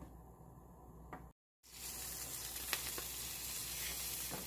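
Slices of Spam frying in a dry nonstick pan, with a light tap of a wooden spatula. The first second or so is quiet; after a short gap of silence, a steady sizzle begins about a second and a half in and carries on.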